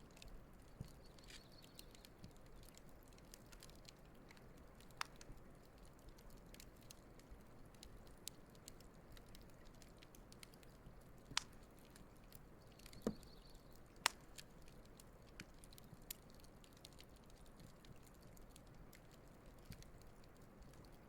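Wood campfire burning quietly: faint crackling with scattered sharp pops, a few louder snaps around the middle.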